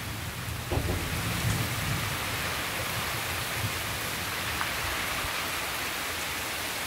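Heavy rain pouring steadily onto waterlogged ground and a roof, with a low rumble in the first couple of seconds.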